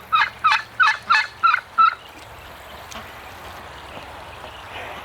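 A duck quacking in a rapid, even run of about six loud quacks, roughly three a second, that stops about two seconds in.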